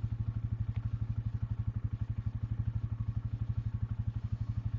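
Engine of a Ranger utility vehicle idling with a steady, even putter.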